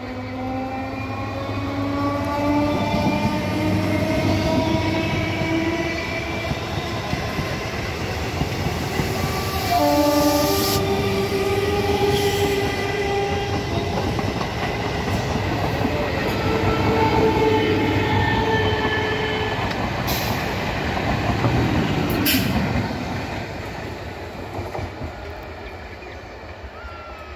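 Electric multiple-unit local train passing close by: a rising whine as it picks up speed, then wheels rumbling and clattering over the track with a few sharp clicks. The sound fades over the last few seconds as it runs away.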